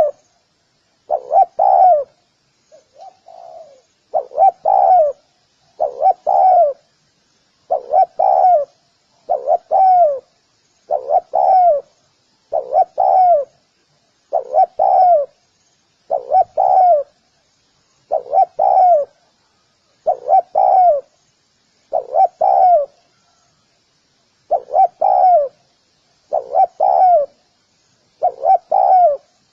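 Spotted dove cooing: a short phrase of two or three low coos, repeated over and over about every second and a half to two seconds, with one fainter call about three seconds in.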